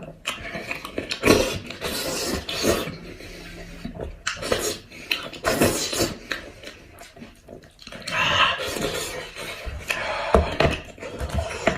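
Close-miked eating sounds from a person eating a cooked goat head: irregular wet clicks, smacks and rasping bits of chewing and tearing.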